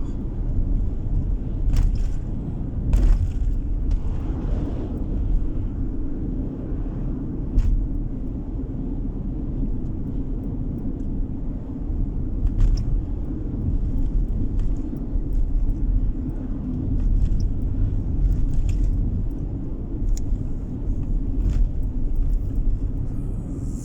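Steady low rumble of a car driving on the road, tyre and engine noise heard from inside the cabin. A few faint clicks or knocks come through now and then.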